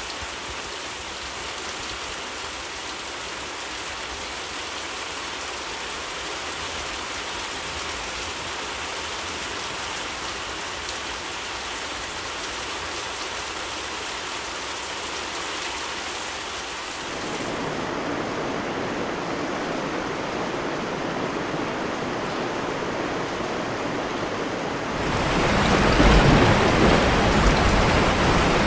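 Heavy rain falling steadily, an even hiss of drops with no thunder. It grows louder and fuller in two steps, about 17 seconds in and again about 25 seconds in.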